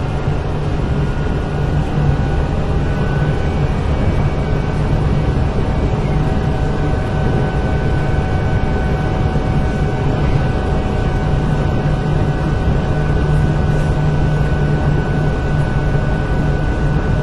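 Kintetsu 8000 series electric train running at steady speed, heard from inside car 8079: a constant rumble of wheels on rail and running gear, with a faint steady high whine over it.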